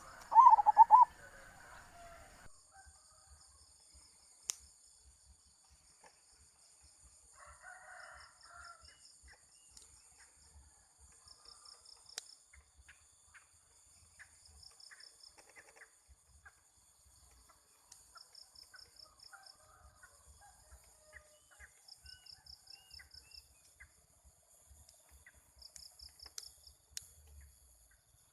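A rooster crowing loudly at the start, with a fainter crow or cackle about 8 seconds later. Insects chirr in repeated rapid pulse trains over a steady high insect hum, and faint scattered bird calls come and go.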